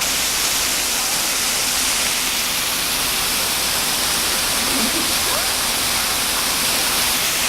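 Steady, loud rushing noise with no distinct events, heaviest in the hiss range; a faint short voice about five seconds in.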